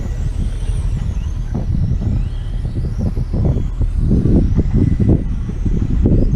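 Racing motorcycles running around a circuit, their engines whining up and down in pitch as they rev and change gear, over a heavy, uneven low rumble.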